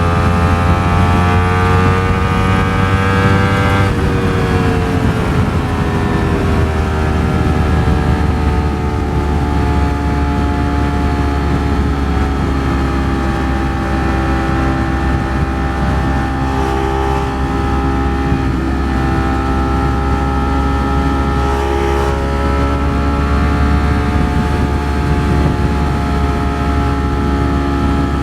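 Ducati Streetfighter V4 S's V4 engine running at cruise on the road. Its pitch climbs slowly for the first four seconds, drops, then holds nearly steady.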